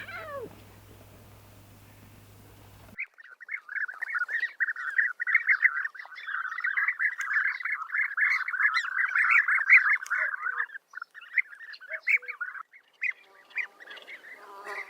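A flock of birds calling over one another in a dense, continuous chorus that starts abruptly about three seconds in and thins out near the end.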